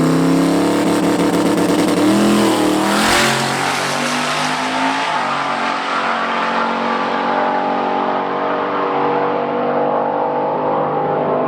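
Drag race car's engine at full throttle during a high-speed pass down the strip, with a shift about two to three seconds in and then steady wide-open running as the car pulls away.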